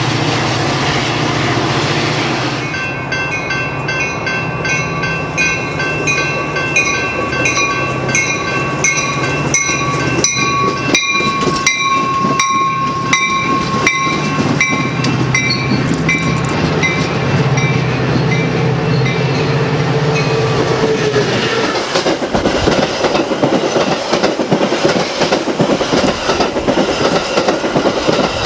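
A Metra train: the low drone of its diesel locomotive, with a string of evenly repeated bell strikes ringing over it through the first half. In the last quarter the train's stainless-steel bilevel cars pass close by, their wheels clacking over the rail joints.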